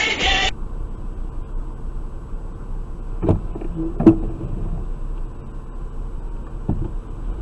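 Steady low rumble of a car's engine and road noise inside the cabin, with two sharp knocks about three and four seconds in and a lighter one near the end.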